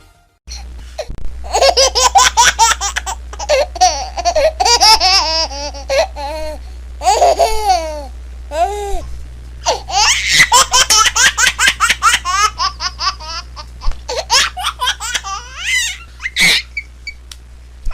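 A baby laughing in quick strings of short, high-pitched laughs, with brief pauses between runs, over a steady low hum.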